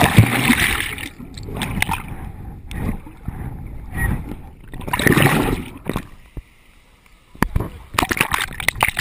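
Water splashing and sloshing close to the microphone in irregular surges, with a few sharp knocks near the end.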